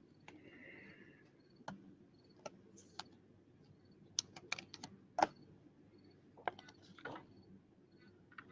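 Light, irregular clicks and taps of trading cards and rigid plastic card holders being handled and set down, the sharpest about five seconds in, with a brief soft rustle near the start.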